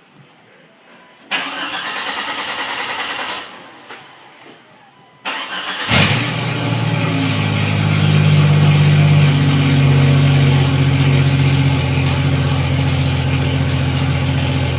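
Jeep Cherokee XJ engine cranked by the starter for about two seconds without catching, then cranked again and firing about six seconds in, settling into a loud, steady idle. It runs with the muffler cut off, the exhaust open behind the catalytic converter.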